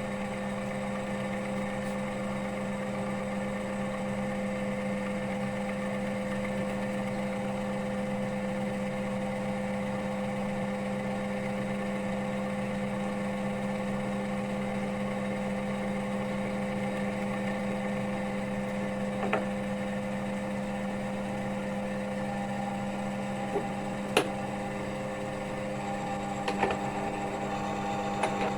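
Oil wear-test machine running steadily, its electric motor turning the test roller under load in warmed engine oil with a steady hum. A few sharp clicks come toward the end.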